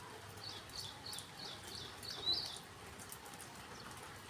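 A songbird calling: a quick series of about six short, high notes in about two seconds, the last one the loudest, over a faint steady background hiss.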